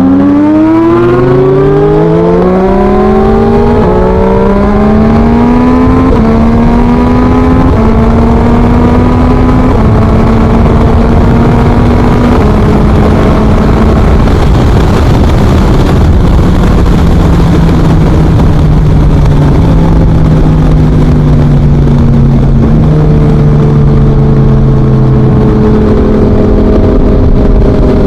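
2023 Yamaha MT-09's 890 cc inline-three through an Akrapovic full exhaust, accelerating through several gears, the revs climbing and dropping back at each quick upshift. It then cruises at steady, lower revs, with the revs stepping up again and climbing near the end.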